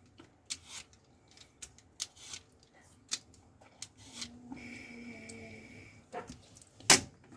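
Scattered small clicks, taps and scrapes of handling. A faint voice hums in the background for a couple of seconds midway, and a sharper knock comes near the end.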